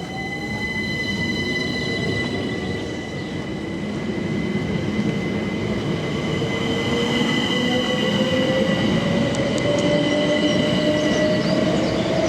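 Electric train pulling away, its traction motors giving a whine that climbs slowly in pitch as it gathers speed, over steady high electrical tones and rumbling wheels on the rails.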